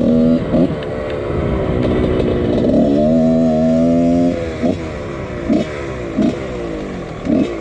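1999 Husqvarna CR125 125cc two-stroke dirt bike engine revving as it is ridden, its pitch climbing and falling with the throttle. A long held pull about three seconds in, then a string of short throttle blips.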